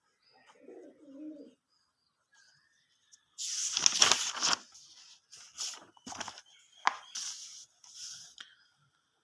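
A bird cooing softly and briefly. It is followed by several seconds of scratchy rustling noise in short bursts, loudest about four seconds in.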